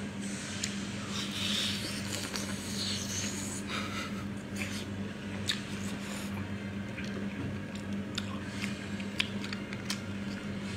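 A person chewing cooked octopus tentacles, with wet squishing mouth sounds and scattered smacks and clicks, over a steady low hum.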